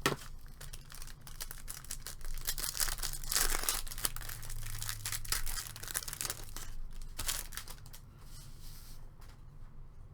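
Plastic wrapper of a trading card pack being torn open and crinkled: a dense run of tearing and crackling that thins out after about eight seconds.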